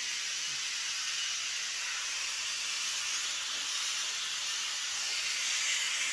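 Dirt Devil Cordless Reach Max Plus stick vacuum running with a steady airy hiss. Its suction is weak: it picks up little dirt even when pressed down hard.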